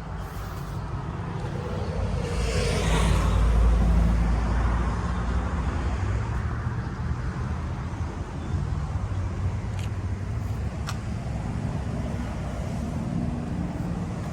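Steady low motor-vehicle engine rumble, with a broader rush of vehicle noise that swells louder about two to five seconds in and then eases back, like a vehicle passing.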